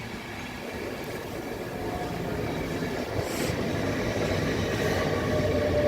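InterCity 225 express train running along the platform, its rumble growing steadily louder, with a faint thin squealing tone coming in near the end.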